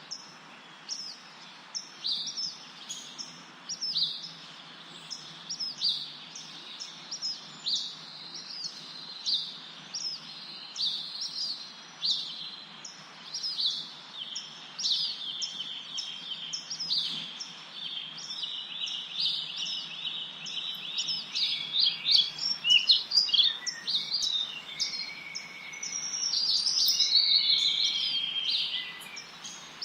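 Songbirds chirping: short high calls that drop quickly in pitch, repeated about once or twice a second, over a faint steady hiss. Several birds overlap and the calling grows busier and louder about two-thirds of the way through.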